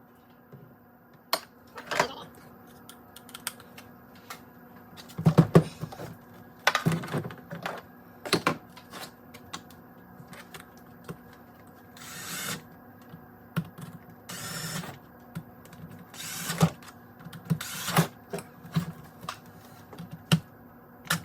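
Irregular clicks, taps and clinks of hand tools and metal steering-box parts being handled on a workbench, with two short scraping or hissing noises near the middle.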